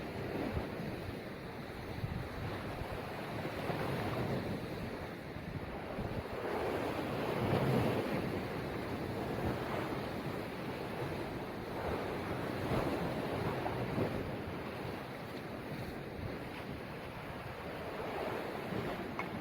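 Sea waves surging and washing in, swelling and ebbing every few seconds, loudest about seven seconds in, with wind buffeting the microphone.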